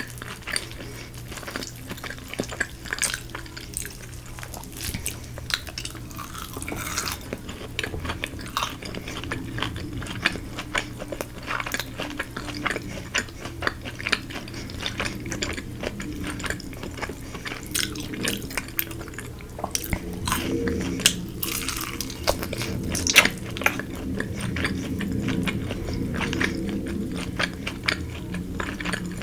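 Close-miked chewing and crunching of Korean fried chicken, with many sharp crackles and occasional clinks of a utensil on a dish, over a steady low hum.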